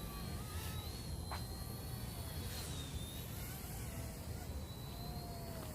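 Small RC helicopter's motor whining at a high, steady pitch that wavers slightly as it flies, over a low background rumble.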